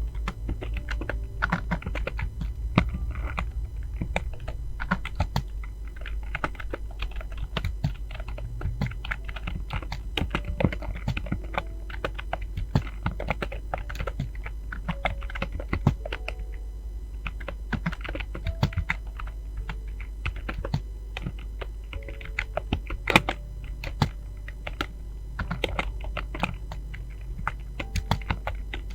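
Computer keyboard being typed on fast, key clicks coming in quick irregular runs with brief pauses between, over a steady low hum.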